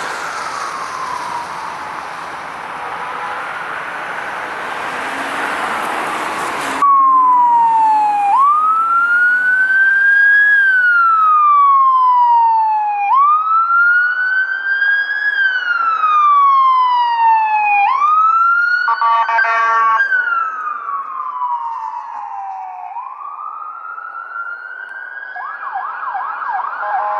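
Emergency vehicle siren on wail over road noise, cutting off suddenly about seven seconds in. A second siren follows, each cycle rising quickly and falling slowly about every five seconds. A horn blast comes about two-thirds through, and the siren switches to a fast warble near the end.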